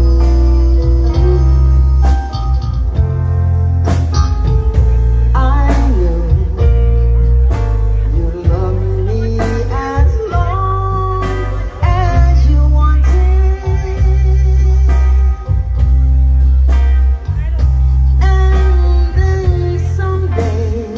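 Blues-rock music: a band with electric guitar, heavy bass and a singing voice.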